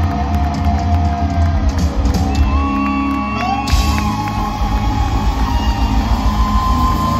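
Live country-rock band playing loud, with heavy bass and long held guitar notes that bend in pitch, and the sound shifting to a new section about halfway through. Crowd whoops and shouts come through under the music.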